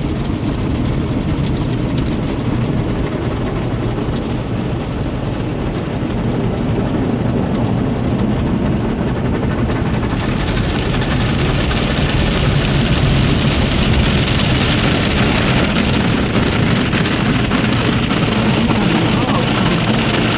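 Tunnel car wash machinery heard from inside a minivan's cabin: a steady low rumble, with a hiss of water spraying on the body that grows louder about halfway through.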